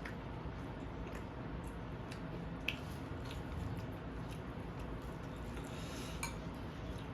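A person chewing food close to the microphone, with scattered small clicks and taps; a sharp click about two and a half seconds in is the loudest sound.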